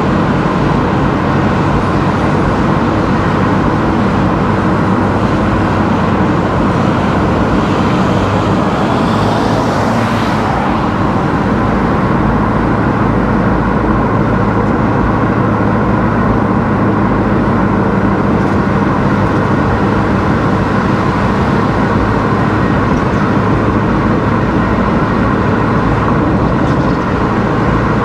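A car driving on a road: steady engine and tyre noise, with a brief swell of hiss about nine seconds in.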